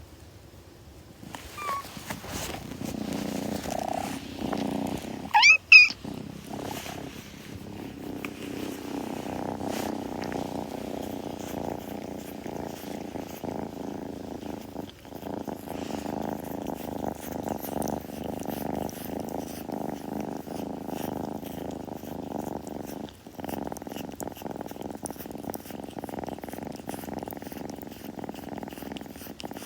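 Kitten purring steadily close to the microphone, with two brief pauses. About five and a half seconds in, a short, loud, high-pitched sound rises over the purr.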